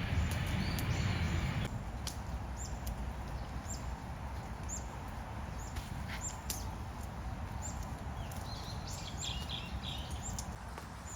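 A small bird calling with short, high chirps that drop in pitch, repeated every half second or so and bunched together near the end, over a steady rushing background. The background is louder and deeper in the first second or two, then changes abruptly.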